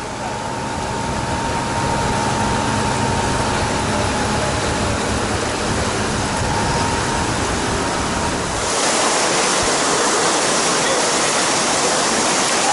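Rushing water with a steady low engine hum under it; about two-thirds of the way through, the hum cuts out abruptly and a louder, hissier rush of falling water takes over.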